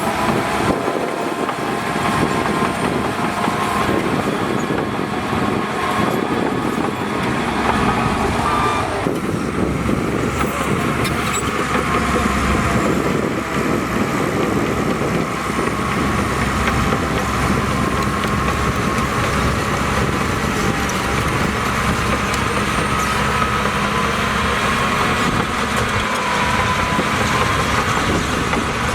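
Heavy diesel earthmoving machinery at work, a bulldozer and dump trucks, running steadily with a wavering whine above the engine noise. The sound shifts about nine seconds in.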